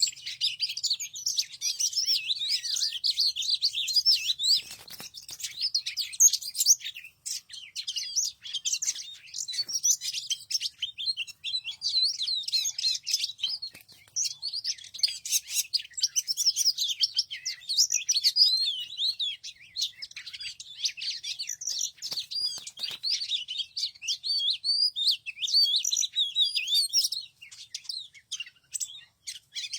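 Small birds chirping and twittering continuously in a dense run of rapid high calls, thinning briefly a few times.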